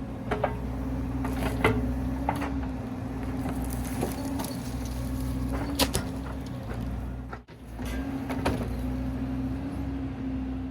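An engine running steadily at low speed, with scattered sharp clicks and knocks over it; it drops out briefly about seven and a half seconds in.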